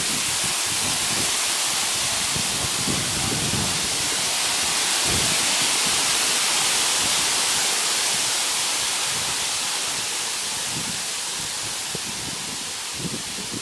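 Strong gusty wind rushing through trees, a steady hiss with brief low buffets of wind on the microphone now and then; it eases a little in the second half.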